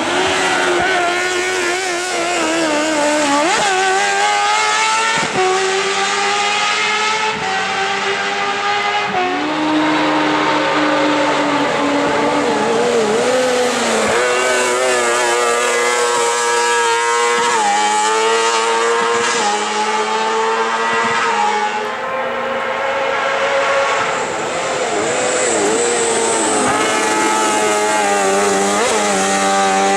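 Hill-climb race car engine at high revs, its pitch climbing and then dropping sharply again and again as it shifts gear and lifts off for corners.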